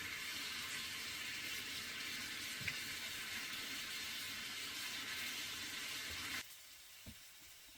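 Fish cakes in spicy sauce sizzling in a pan: a steady hiss that cuts off suddenly about six seconds in.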